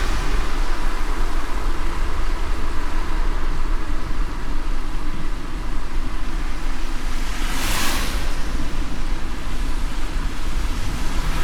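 Steady low rumble and road hiss of a moving car, with one brief whoosh about eight seconds in.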